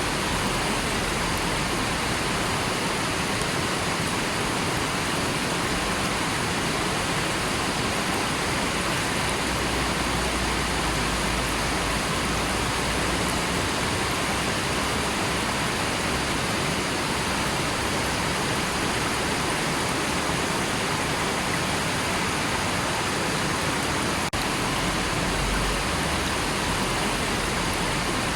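River water flowing steadily in a constant, even rush.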